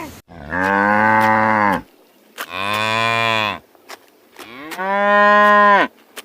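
Cow mooing three times, each moo a long steady call lasting over a second.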